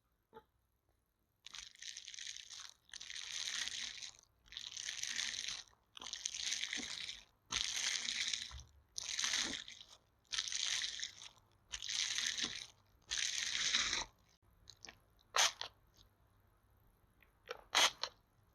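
Close-miked ASMR rubbing or scratching, about nine scratchy strokes of roughly a second each with short pauses between, then a few sharp taps near the end.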